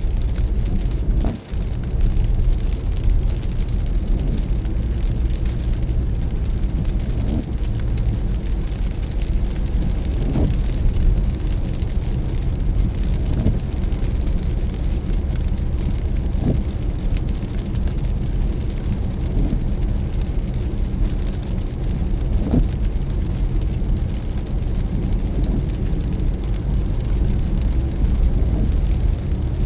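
A car driving on wet roads in rain: a steady low road-and-engine rumble with a fainter hiss of rain and wet tyres.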